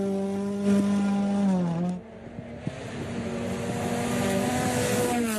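Rally car engine at high revs with a steady pitch. The pitch dips and the sound falls away abruptly about two seconds in, then the engine builds and climbs again.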